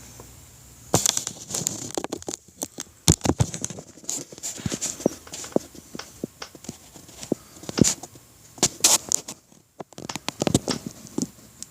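Irregular clicks, knocks and light scrapes from handling work on the engine, with no power tool running.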